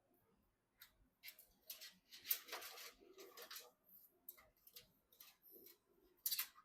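Faint handling noises, probably PC parts being worked on during assembly: a run of short scrapes, rustles and clicks. They are densest around two to three seconds in, with another sharp scrape near the end.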